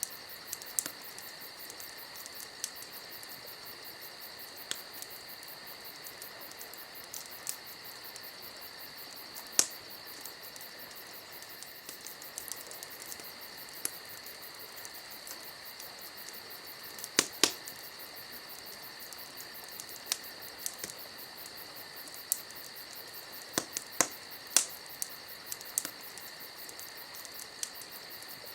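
Wood campfire crackling with scattered sharp pops, the loudest a quick cluster about seventeen seconds in, over a steady chorus of crickets.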